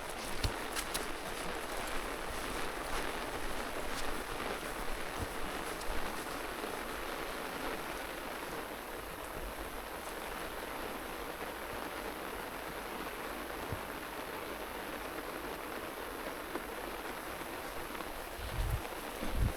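Steady rain falling, with scattered sharp drop ticks in the first few seconds and a couple of low thumps near the end.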